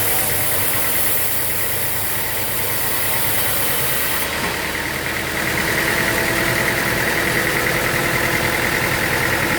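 An engine running steadily, with a pulsing high whine that grows louder about five and a half seconds in.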